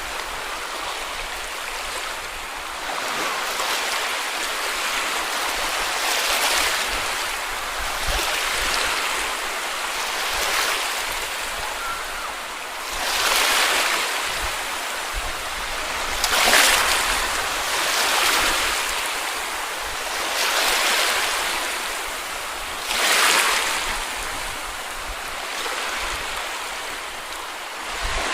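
Small sea waves breaking and washing up a beach: a steady hiss of surf that swells with each new wave every two to three seconds.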